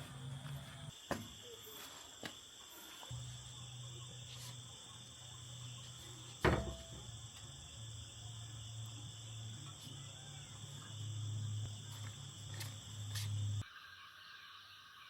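Insects chirring steadily, with a low hum underneath that comes and goes and a single sharp knock about six and a half seconds in.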